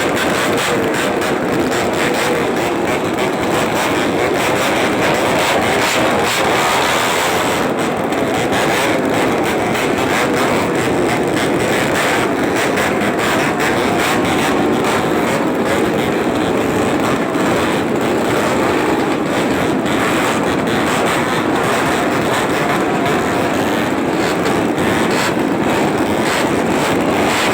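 Motorcycle engine running loudly and steadily through an aftermarket racing exhaust (knalpot racing), a rapid pulsing exhaust note.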